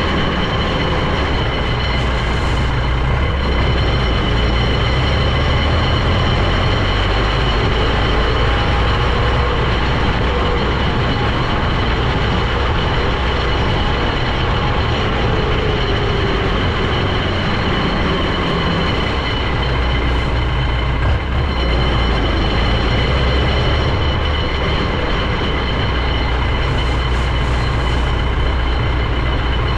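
Heavy vehicle on the move, its engine and drivetrain running steadily with a deep rumble and a constant high-pitched whine.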